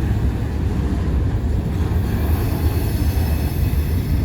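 Freight cars rolling past close by: a steady, loud low rumble of steel wheels on rail. Faint high-pitched wheel squeal joins about halfway through.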